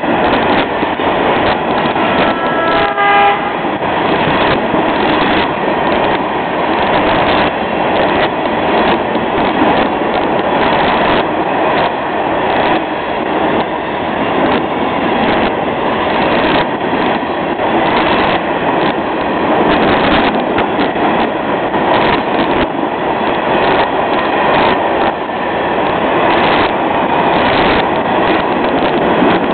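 Florida East Coast freight train's open-top hopper cars rolling past, a steady rumble of steel wheels on rail with irregular clicks and knocks as the wheels cross rail joints.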